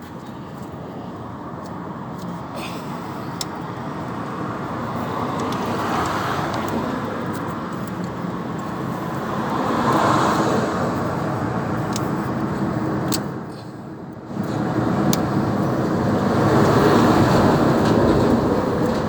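Road traffic passing: vehicles going by one after another, the tyre and engine noise swelling and fading, with a brief lull before the loudest pass near the end.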